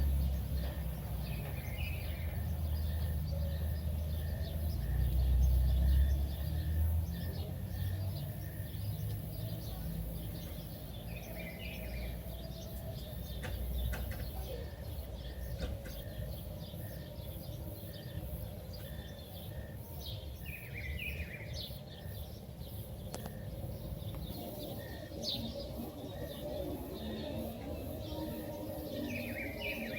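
Outdoor ambience with a bird repeating a short, quick chirped call about four times, roughly every nine seconds, over a faint steady background; a low rumble fills the first several seconds.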